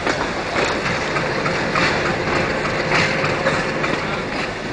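Ooty toy train carriage running along the track, heard from on board: a steady rolling rumble with a few sharp clacks as the wheels pass over rail joints.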